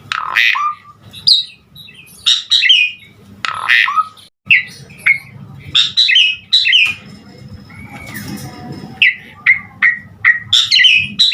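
Javan pied starling (jalak suren) singing a varied song: loud, sharp chattering calls and whistles in quick phrases with short pauses between them, a raspy stretch about two-thirds of the way through, then a run of short, quick whistles near the end.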